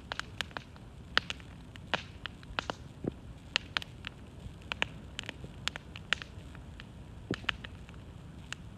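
Wood campfire burning, its logs crackling: irregular sharp pops and snaps over a low steady rumble of the flames.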